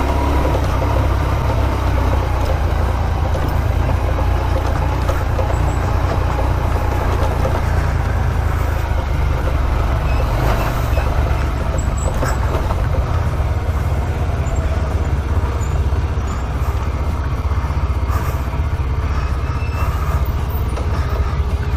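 A 125cc motorcycle being ridden: the engine runs steadily under a continuous low rumble of wind and road noise on the microphone.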